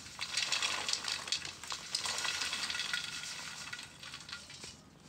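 Baobab seeds being poured gently into a pot of hot water, making a steady hiss with fine crackles that fades out near the end.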